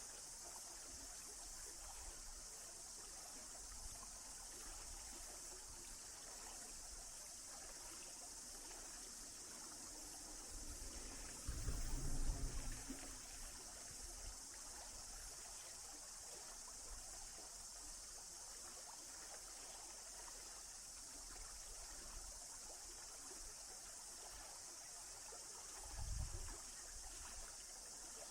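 Faint, steady hiss of running stream water. Twice there is a brief low rumble, about twelve seconds in and again near the end.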